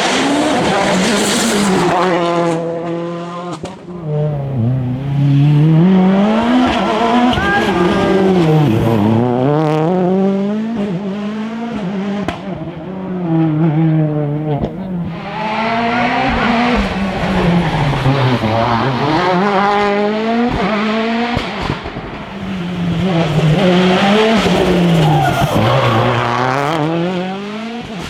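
Rally car engines revving hard on a special stage, the pitch climbing and dropping repeatedly through gear changes and lifts, with some tyre squeal.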